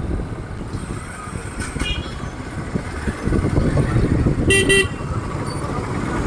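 A motorcycle riding in traffic: steady engine, tyre and wind rumble, with a short vehicle horn beep about four and a half seconds in and a fainter one near two seconds.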